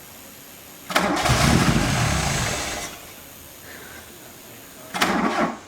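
A car engine being cranked by its starter for about two seconds without catching, then a second short crank about four seconds later. It fails to start, which the owners put down to a weak battery.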